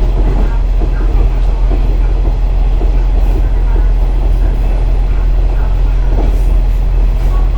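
KiHa 47 series diesel railcar under way: a steady low diesel engine hum with the rumble of wheels on rail and occasional small knocks from the track.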